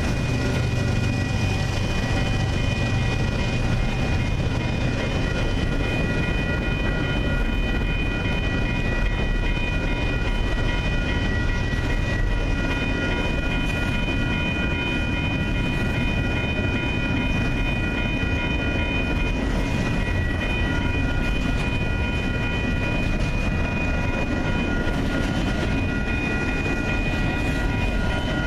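Double-stack container freight train rolling steadily past: a continuous rumble of wheels on rail, with steady high-pitched ringing tones over it that fade near the end.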